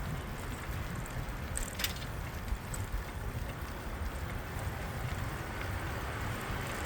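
Wind rumbling on the microphone and steady road noise while riding a bicycle through city streets, with a short click a little under two seconds in.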